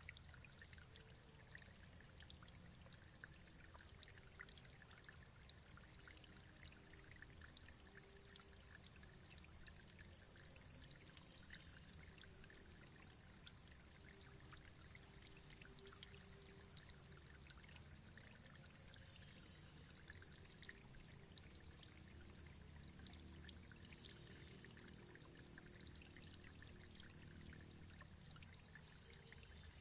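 Faint, steady running water: a trickling stream with many small splashes and drips, under a thin, steady high-pitched tone.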